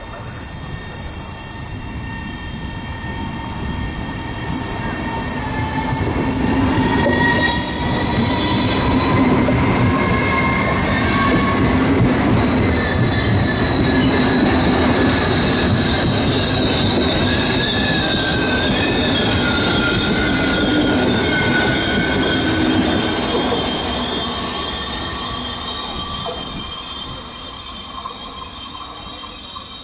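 Italo ETR 675 electric high-speed trainset running past along the platform: a rolling rumble that builds, peaks for about fifteen seconds and then fades away. High, slightly wavering squealing tones ride over the rumble.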